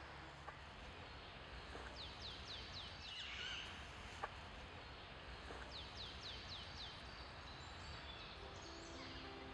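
Outdoor ambience with a small songbird calling twice, each time a quick run of four or five high, falling notes. A single sharp click about four seconds in, and guitar music comes in near the end.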